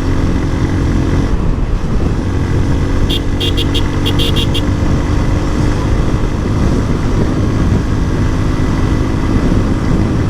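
Motorcycle engine running steadily at road speed, with wind rushing over the microphone. About three seconds in, a horn gives a quick string of short beeps lasting about a second and a half.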